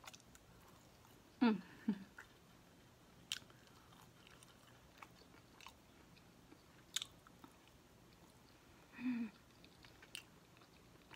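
Chewing of tender rotisserie chicken wing meat, with a few sharp wet mouth clicks and brief hummed "mmm"s, one about a second and a half in and one near the end.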